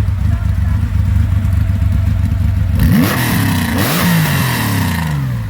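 Rally car driving past at speed: a steady engine drone as it approaches, then about three seconds in a loud rush of tyre and air noise as it goes by, with the engine note rising and falling through gear changes.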